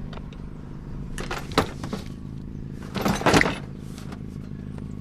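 Metal pipes knocking and clattering as they are handled: a sharp knock about one and a half seconds in and a louder clatter around three seconds in, over a steady low engine hum.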